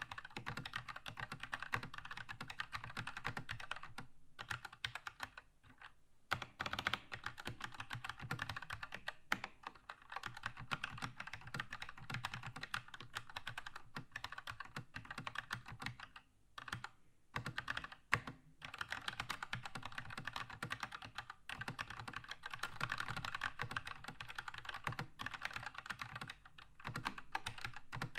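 Keychron K2 mechanical keyboard with red linear switches being typed on quickly and continuously, a dense stream of key clicks broken by a few brief pauses.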